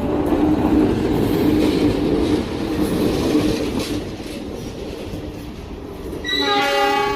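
A train passing at close range: rumble and clatter of wheels on the rails, loudest in the first few seconds. Its horn sounds again near the end.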